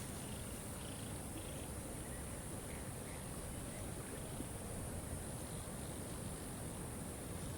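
Steady rush of a waterfall, with a few faint short bird chirps in the first three seconds.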